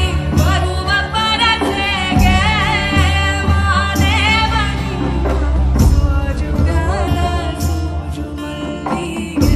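A woman singing a Kannada devotional folk song with a live band: long, wavering held notes over bass and regular drum strikes.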